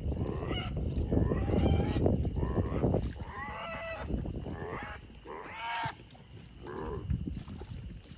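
Farm animals calling: several short, pitched cries about three seconds in and again near six and seven seconds, after a few seconds of low rumbling noise.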